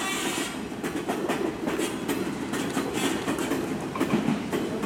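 Train running along the rails, a steady rumble with the wheels clacking over the rail joints.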